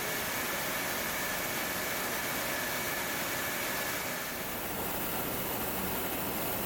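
Steady factory-floor machinery noise: an even hiss with faint high-pitched tones from the production-line equipment.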